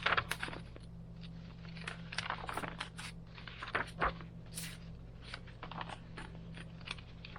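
Pages of a thick handmade paper journal being turned and handled: an irregular series of paper rustles, scrapes and soft taps, over a steady low hum.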